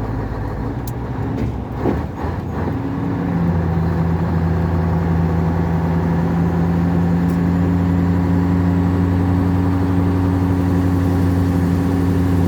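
Scania 143's V8 diesel engine heard from inside the cab, pulling a hill. About two seconds in there are a few clicks and a brief dip as the driver shifts to third gear. Then the engine settles into a steady, somewhat louder drone under load.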